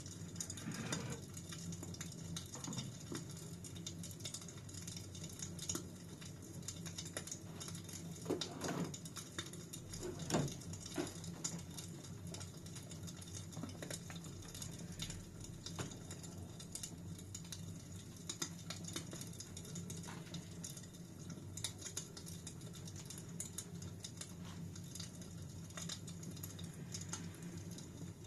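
Fire in a fireplace crackling, with many small irregular pops over a steady low hiss and a slightly louder pop about ten seconds in.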